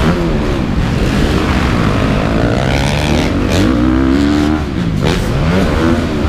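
Several motocross dirt bike engines revving, their pitch rising and falling again and again as the riders throttle on and off, with more than one bike heard at once.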